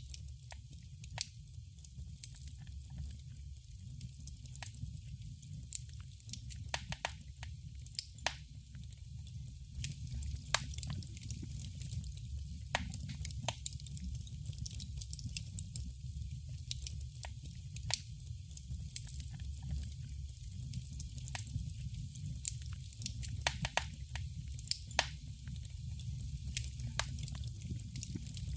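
Wood fire crackling in a fireplace: irregular sharp pops and snaps scattered through, over a steady low rumble of the flames.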